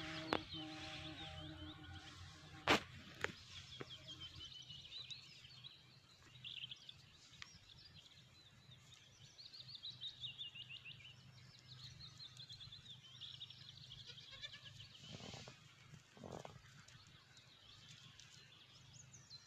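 Animal calls: a drawn-out pitched call that ends about a second in, then rapid high chirping and trilling that comes and goes, with one sharp click about three seconds in.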